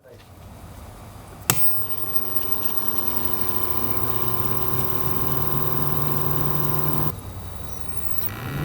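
A sharp click, then a small electric fan motor spinning up, its hum rising slowly in pitch and levelling off. The hum cuts off abruptly about seven seconds in, and another starts to spin up near the end.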